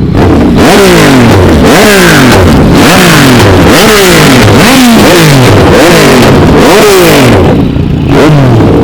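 A vehicle engine revved over and over, about once a second, each rev climbing quickly and then falling back. It is loud, with a brief lull near the end.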